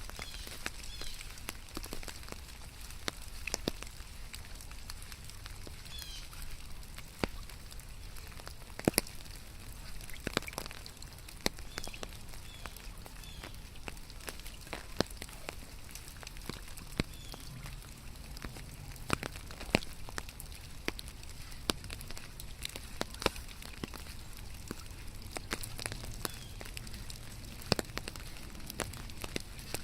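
Steady rain, with big drops tapping sharply at irregular moments over a soft hiss. Short high chirps come now and then.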